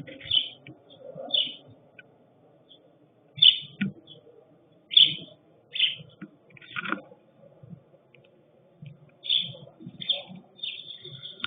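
Wild birds chirping: short, high calls repeated irregularly, about one every second, over fainter low sounds.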